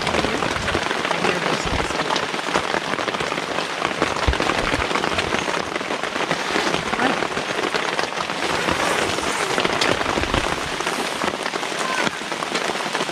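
Steady rain falling, an even hiss made of many small drop hits with no let-up.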